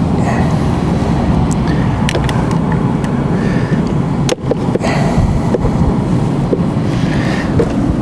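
Volvo XC70 engine idling with a steady low rumble, running lean and rough on low fuel rail pressure, which the mechanic blames on a faulty new rail pressure sensor. A few light clicks come from handling a back-probe at the sensor connector between two and three seconds in.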